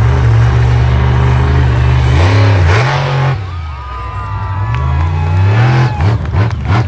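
Monster truck engine running hard and revving: loud for about three seconds with a rev near the three-second mark, easing off briefly, then building again before dropping near the end.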